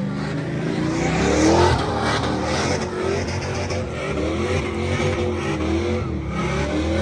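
Loud truck engine revving, rising and falling in pitch again and again, with a noisy hiss underneath.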